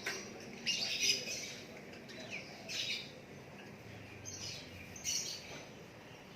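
Caged songbird chirping in short high phrases: a cluster about a second in, another about three seconds in and a briefer one about five seconds in.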